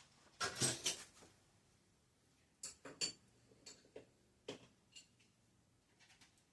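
Small metal tools and bicycle parts being handled on a workbench: a short rattle and clatter about half a second in, then a string of separate sharp clicks and clinks.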